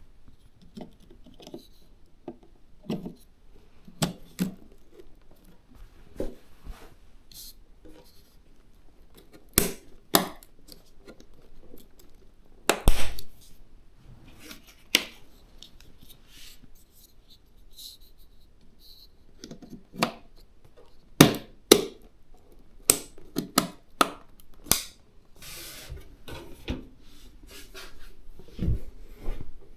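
Hands handling PC components and their plastic packaging: irregular sharp clicks and taps with short bursts of rustling and scraping, loudest in a cluster of clicks a little after the middle.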